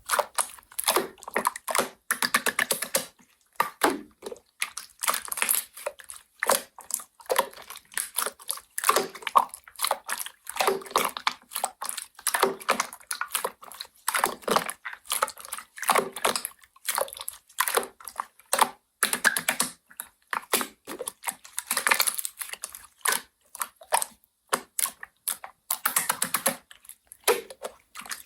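Slime being squeezed and pressed by hand, making a run of irregular crackling, clicking pops.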